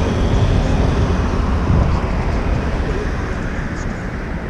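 City street traffic mixed with wind on the microphone of a bike-mounted GoPro, a steady low rumble.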